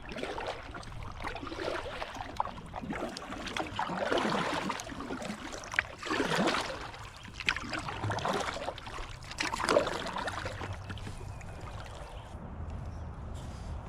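Kayak paddle strokes in river water: repeated swishes and splashes with drips, a couple of seconds apart, fading near the end.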